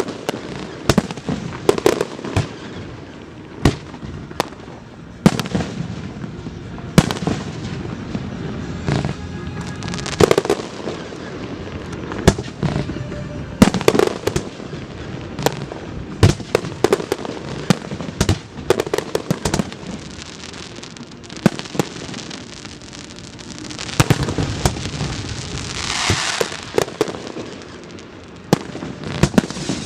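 Fireworks display: shell bursts going off in an irregular run of sharp bangs, sometimes several a second, with a hissing, crackling spell lasting a couple of seconds near the end.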